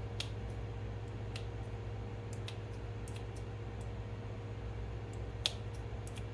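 Pot of chicken broth heating on a stove toward a boil: scattered sharp ticks and pops over a steady low hum, the loudest pop about five and a half seconds in.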